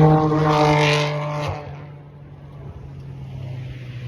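A car with a loud modified exhaust driving past, its engine note holding steady and then fading away about a second and a half in.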